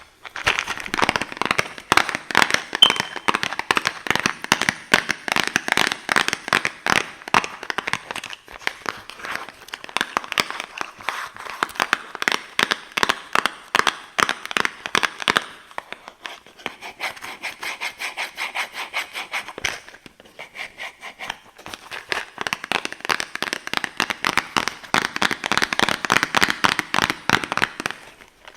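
Rapid tapping and scratching on boxes, many taps a second, easing off to a quieter stretch and a brief pause about two-thirds of the way through before picking up again.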